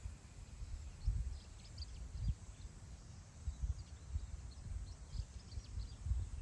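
Wind gusting over open grassland, buffeting the microphone as an uneven low rumble that swells and eases. A few faint short bird chirps sound about a second in and again near the end.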